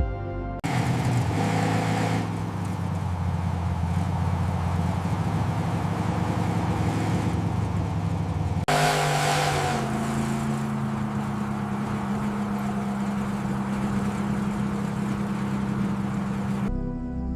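A car engine running, revved briefly and then settling to a steady idle. After an abrupt cut about halfway, a second stretch of it revving briefly and idling steadily follows.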